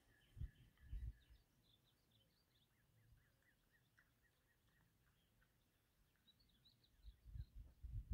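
Near silence, with faint songbirds chirping in quick short notes in the background and a few soft low thumps near the start and toward the end.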